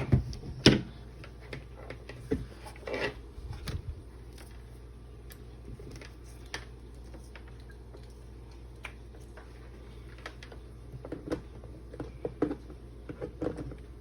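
Scattered taps, knocks and clicks of objects being handled and set down on a table, in clusters near the start and again near the end, with a quiet stretch between.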